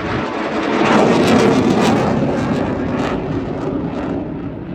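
RAF Eurofighter Typhoon's twin Eurojet EJ200 turbofans as the jet flies its display. The jet noise swells to its loudest about one to two seconds in, with a ragged crackle at the peak, then slowly fades.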